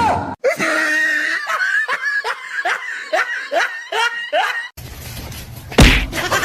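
A person laughing in a run of short rhythmic bursts. Then comes a stretch of noise with one sudden loud burst near the end.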